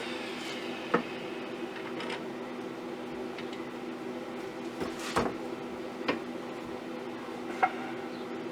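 A lathe motor running with a steady hum, broken by a few light knocks and clicks, the sharpest about a second in and near five, six and seven and a half seconds.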